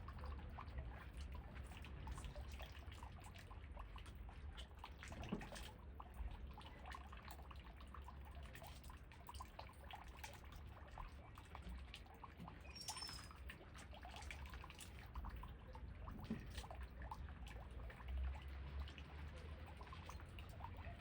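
Steady rain falling through trees, with many separate drops and drips over a low, steady rumble of wind. A short high chirp sounds about two-thirds of the way through.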